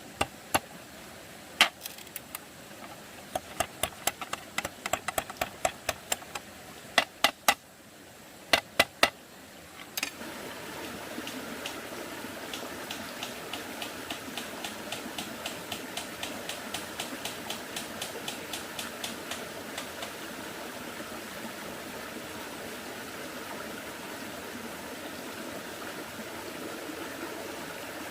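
Sharp, irregular knocks and taps, like tool strikes. About ten seconds in, they give way abruptly to a steady rushing noise, with quick, even ticking at about four a second for roughly ten seconds.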